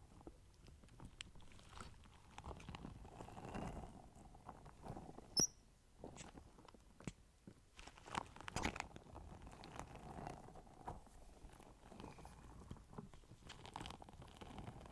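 Close-miked ASMR mouth sounds: soft, irregular clicks and wet smacks, with one sharper click about five seconds in.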